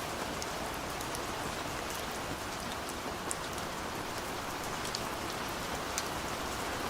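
Steady rain falling, with scattered individual drops ticking out clearly above the even hiss.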